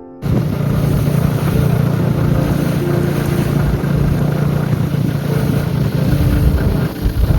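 Steady, loud running rumble of a moving vehicle, starting abruptly just after the start and holding evenly.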